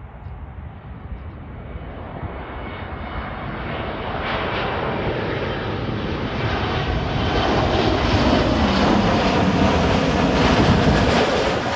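Jet airliner on landing approach, its engine noise swelling steadily as it comes in close overhead, with a faint high whine over the rush; loudest near the end.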